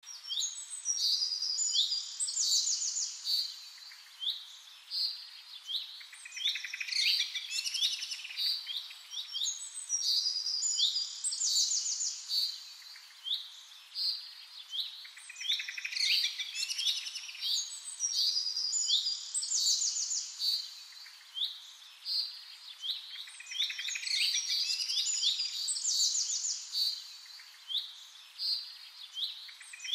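Birds chirping and singing in quick, high chirps and trills. The same stretch of song comes back about every eight seconds.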